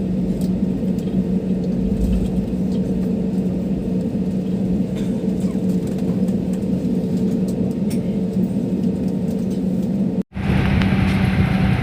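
Steady airliner cabin noise after landing: a low rumble with a constant engine hum. About ten seconds in it drops out for a moment, then comes back louder and brighter.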